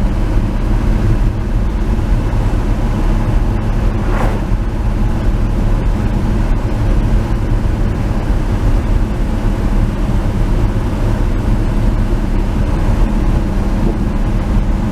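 1949 Chevy 3100 pickup's rebuilt engine running steadily at cruising speed, about 2,000 RPM, with road noise as the truck drives along.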